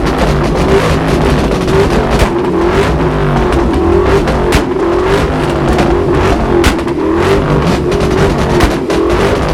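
Performance car engines revving hard and held high, the pitch wavering up and down, with sharp exhaust pops and bangs every second or so.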